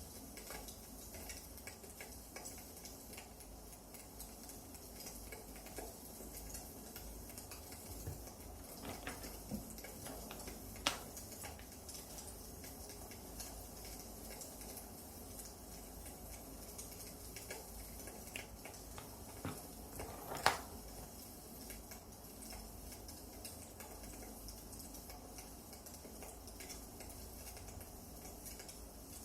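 Burning firewood crackling softly, with scattered small clicks and two louder sharp pops, about a third and two thirds of the way through.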